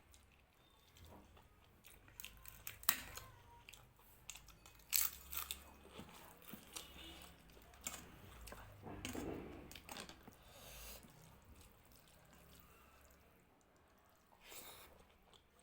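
Close-up eating sounds: chewing and crunching of food, with scattered sharp clicks and crackles, a busier stretch of chewing past the middle and one more near the end.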